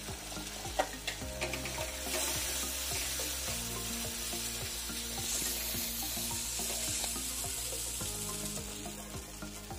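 Onion and chilli-powder masala sizzling in hot mustard oil in a metal kadai, stirred with a flat metal spatula that scrapes and taps against the pan.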